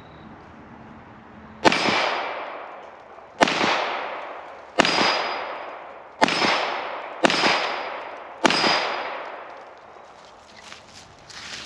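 Six .22 LR pistol shots at a steel plate rack, fired about one to one and a half seconds apart. Each shot is followed by a fading ring, typical of a steel plate being hit.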